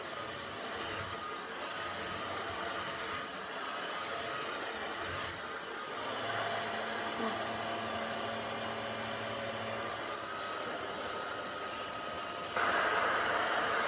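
KESSER cordless stick vacuum cleaner running, a steady whine with a rush of air. Near the end it steps up suddenly to a louder, higher level.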